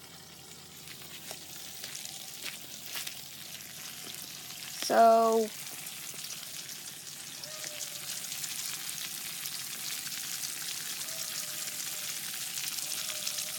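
Water hissing out of the spray nozzles of a homemade bike wash, a steady spray that slowly grows louder. About five seconds in comes one short, loud, pitched sound lasting about half a second.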